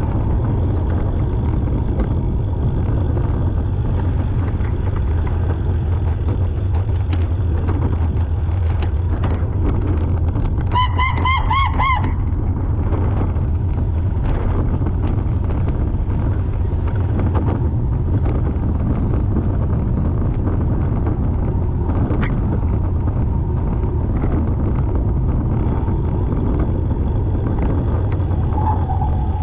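Steady low rumble of a car heard from inside the cabin, crawling in traffic. A brief high, wavering tone rings out about a third of the way in, and another steady tone starts near the end.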